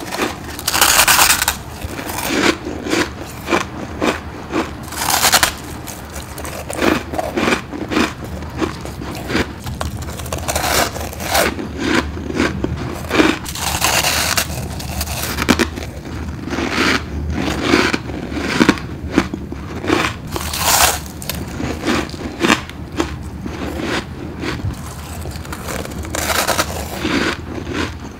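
Close-miked biting and chewing of built-up deep-freezer frost: a steady run of crunching and crackling, with a few louder crunchy bites along the way.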